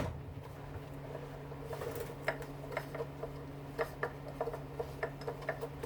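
Light, irregular clicks and taps of small plastic and metal dishwasher parts being handled and worked loose, over a steady low hum.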